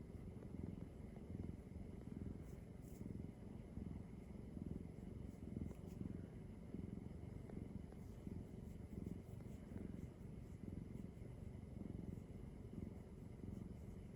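Domestic cat purring close to the microphone: a low, continuous rumble that swells and eases in a steady rhythm.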